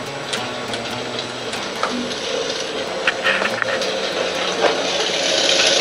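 Recorded wood-fire crackling played back through a portable speaker: irregular pops and snaps over a steady hiss, growing louder near the end.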